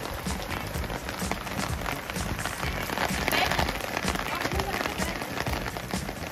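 Rain falling steadily on a wet concrete rooftop: a dense patter of drops, a little heavier about three seconds in.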